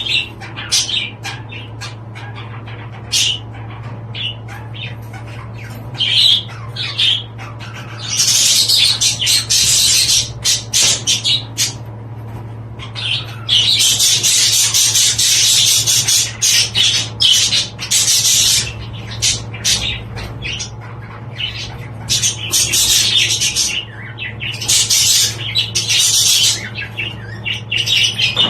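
Budgerigars chattering and squawking in bouts of rapid, high-pitched warbling with sharp clicks, over a steady low hum.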